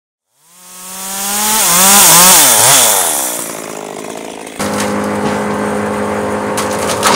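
Gas chainsaw running at high revs, its pitch rising and falling as the throttle is worked in the first few seconds. About four and a half seconds in it changes abruptly to a steady, even run at full speed.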